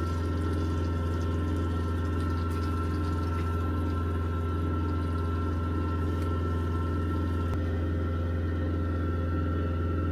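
Steady low machine hum with a faint high whine above it, unchanging throughout.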